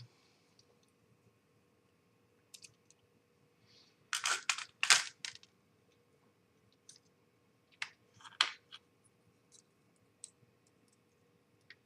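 Hard model-kit parts being handled: scattered sharp clicks and clacks of plastic and metal pieces knocking together and against a surface, loudest in a quick cluster about four seconds in and another about eight seconds in.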